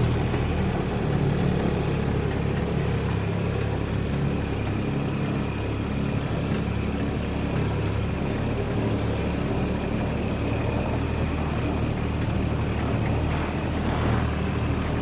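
Irrigation pump running steadily with a constant low hum.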